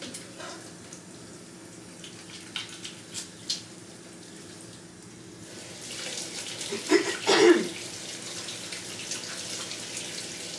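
Kitchen tap running into the sink while hands are washed under it, the flow getting stronger about halfway through. Two loud clatters around seven seconds in.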